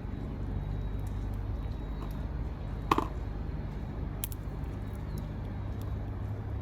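A steady low rumble with one sharp click about halfway through, followed by a few faint ticks.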